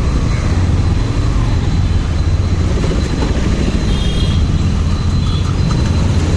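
Motorcycle ride heard from the rider: a steady, loud low rumble of engine and road noise.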